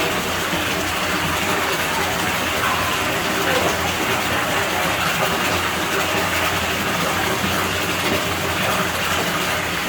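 Steady rush of flowing water in a pool villa's pool, with a low even hum underneath.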